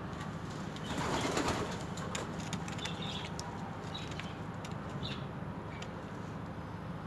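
Birds calling with short, high chirps every second or so, and a brief flutter of wings about a second in, over a steady low hum.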